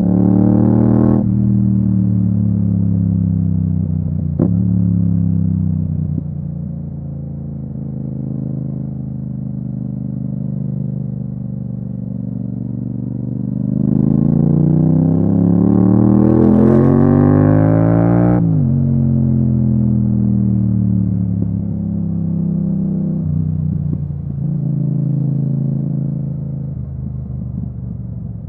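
Yamaha MT-07's 689 cc parallel-twin engine through an Akrapovic exhaust under way. It drops off about a second in and then runs steadily at part throttle. About halfway through it revs up in a long rising pull of about four seconds, then falls sharply as the throttle closes, and settles back to steady cruising.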